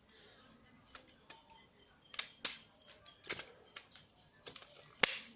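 Irregular plastic clicks and taps of a mini 4WD's hard plastic body being fitted onto its chassis by hand, with one sharp snap near the end.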